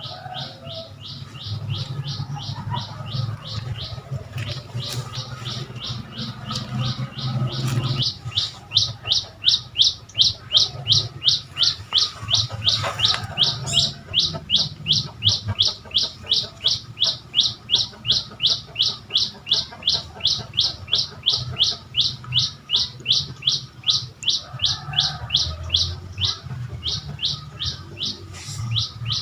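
A bird calling the same short, high note over and over, about three times a second, the calls growing louder about eight seconds in. A low, steady rumble runs underneath.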